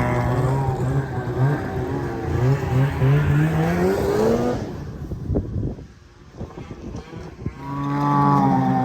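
An engine running with a steady hum, rising in pitch as it revs about three seconds in, then dropping away to a few knocks and rattles before settling back to a steady run near the end.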